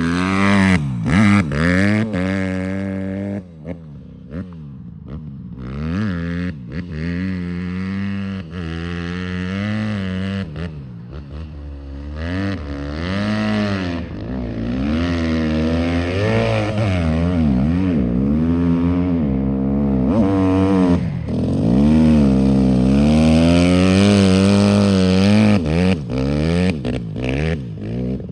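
Dirt bike engine revving hard and easing off over and over, its pitch climbing and dropping with each throttle opening and gear change.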